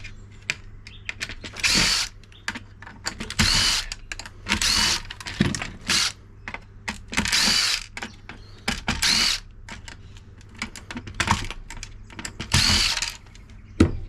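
Power drill-driver backing out screws in short bursts of about half a second to a second, about eight times, with small clicks of handling in between.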